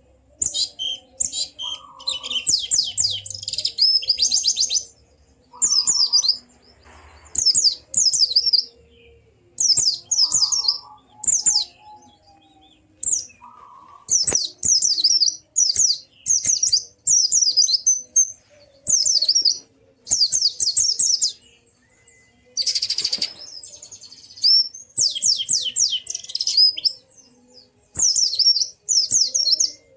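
White-eye (pleci) singing: fast, high chattering phrases of quick downward-sweeping notes, each about a second long, repeated over and over with short pauses.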